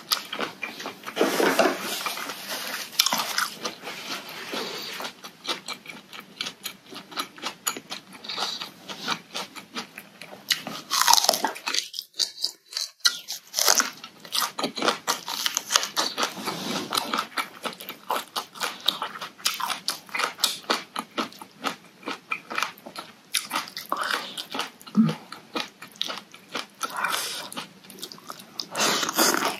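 Close-miked eating: crunching raw vegetables such as round Thai eggplant and chewing mouthfuls of spicy noodle salad, as a dense run of small crisp clicks and crunches. It stops briefly about twelve seconds in.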